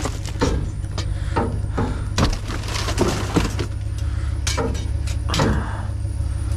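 A pickup truck engine idling with a steady low hum, under a string of irregular knocks, rattles and rustles as lightweight junk is pulled out of a dumpster and handled.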